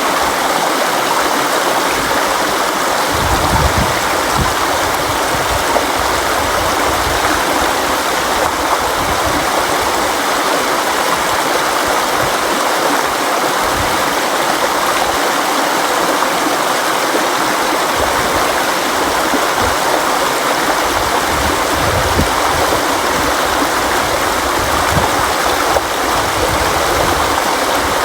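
A river flowing: a steady rush of water over rocks, with an uneven low rumble underneath.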